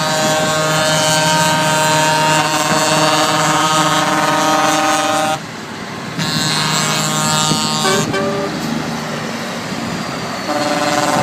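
Truck air horns sounding in long, steady blasts: one for about the first five seconds, another a little later lasting about two seconds, and a third starting near the end, over the running of passing trucks.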